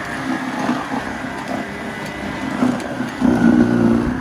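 Cordless battery-powered snowblower running, a steady motor hum that grows louder about three seconds in.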